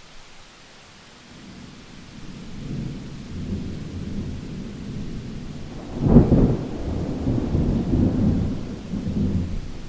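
Thunder over steady rain. A low rumble builds from about a second and a half in, a sharp, louder clap comes about six seconds in, and the thunder rolls on afterwards.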